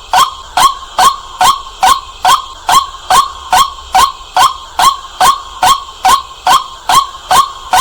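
White-breasted waterhen giving its loud, clear 'kwak' call over and over, about two calls a second at a very even pace.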